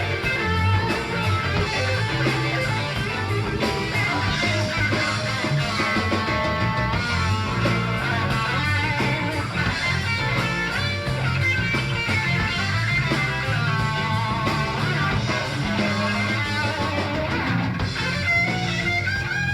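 Live rock band playing an instrumental: melodic electric guitar lines over a moving bass line and drums, heard through a cassette recording made in a club.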